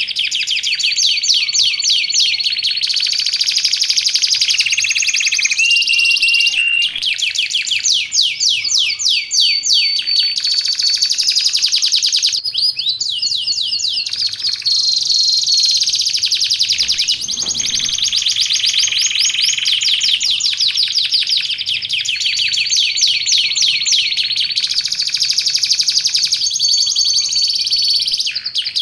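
Domestic canary singing continuously and energetically, in long runs of fast trills broken by a few held whistled notes.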